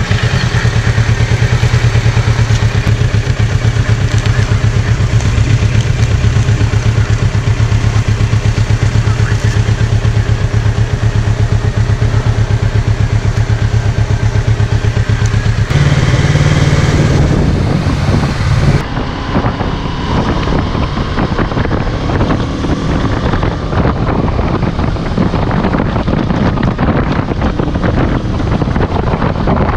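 Kawasaki Z650's parallel-twin engine idling steadily, freshly started, with a short rise in revs about 16 seconds in. About 19 seconds in it gives way to the bike running at road speed with wind noise on the microphone.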